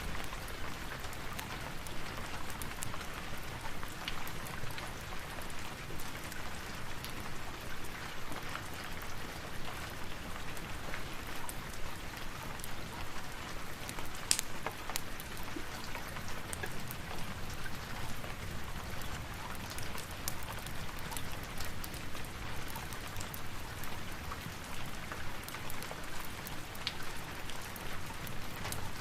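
Steady rain with scattered crackles from a fireplace fire mixed in, one sharper snap about halfway through.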